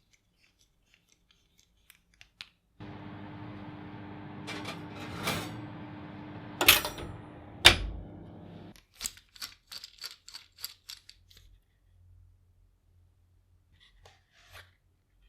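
A small electric motor runs steadily for about six seconds, with two sharp knocks near the end of its run. After it stops, a quick series of light clicks follows and fades out.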